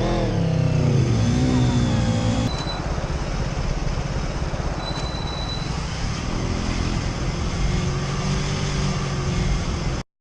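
Motorcycle engine revving up and dropping in pitch through gear changes while riding off, then cruising under steady wind rush. The sound cuts off abruptly near the end.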